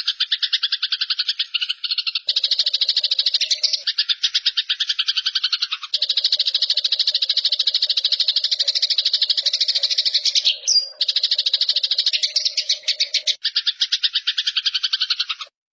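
Eurasian tree sparrows giving their harsh, rapid fighting chatter: a fast run of high chirps with a few brief breaks, stopping near the end.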